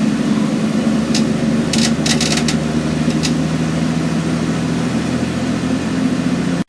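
Scania N113CRB bus's diesel engine running steadily, with a few short, sharp clicks or rattles between about one and three seconds in.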